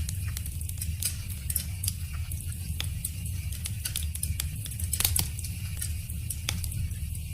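Wood fire crackling: irregular sharp pops and snaps over a steady low rumble and hiss.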